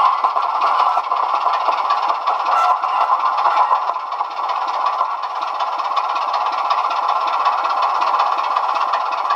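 OO-scale model locomotive with a sound decoder running, its onboard speaker playing a steady locomotive engine sound that is thin and has no bass.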